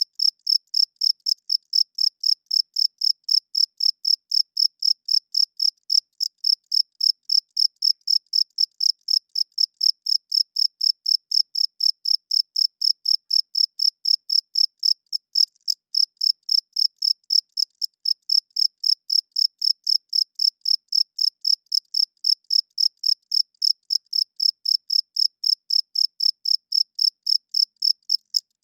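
Male crickets chirping, their wings rubbed together: a high chirp of steady pitch repeated about three times a second, evenly and without a break.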